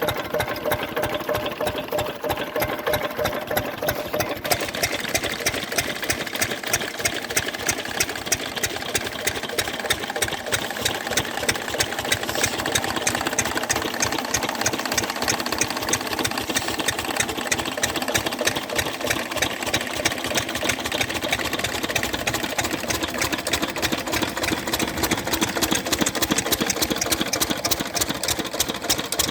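Engines of two farm machines running steadily with a fast, even knocking beat. A higher rattle joins about four seconds in.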